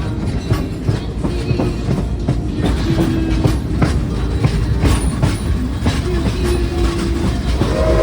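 Steam train's passenger cars rolling along the track, a steady rumble with irregular clicks and clatter from the wheels on the rails, heard from aboard.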